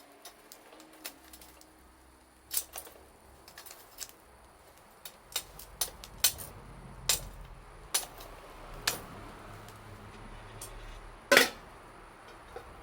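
Wood fire crackling, with irregular sharp pops and snaps; the loudest crack comes about eleven seconds in.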